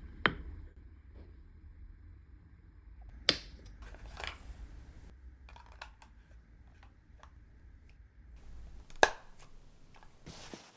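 Painting supplies being handled on a work table: a few sharp taps and clicks, the loudest about a third of a second in, just after three seconds and about nine seconds in, with lighter ticks between, over a low hum.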